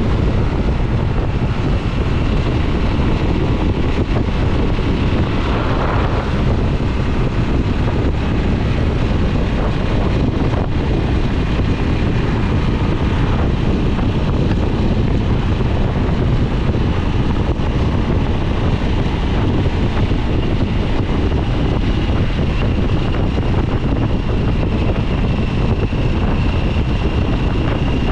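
2022 Harley-Davidson Nightster's Revolution Max 975T V-twin running at a steady cruise on the road, heavily masked by wind buffeting the microphone.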